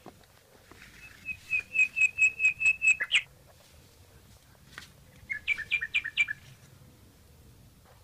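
A small songbird singing two short phrases: a quick, even run of about nine high notes starting about a second in, then a shorter run of about six notes about five seconds in.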